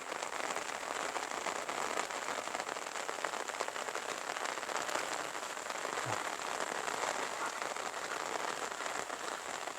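Light steady rain falling, a dense even patter of fine drops.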